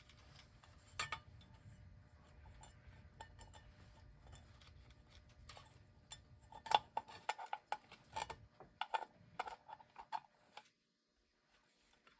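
Small metal clicks and clinks of washers and parts being handled and fitted onto the back cover of a clock movement, most frequent after about six seconds. The sound drops to dead silence for about a second near the end.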